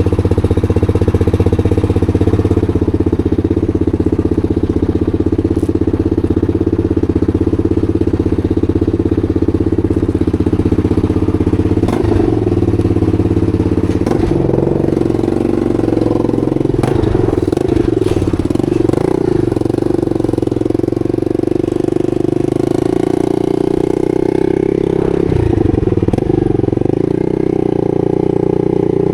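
250 supermoto motorcycle engine running: steady engine speed for the first dozen seconds, then rising and falling revs for several seconds before settling back to a steady note.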